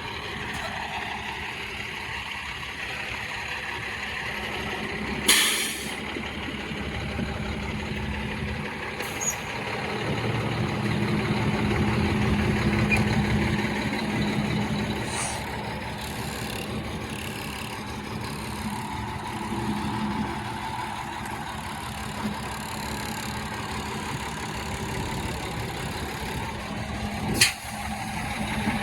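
Truck's Cummins ISM inline-six diesel running steadily at idle, swelling louder for a few seconds around the middle. Two short, sharp bursts of air hiss stand out, one early and one near the end.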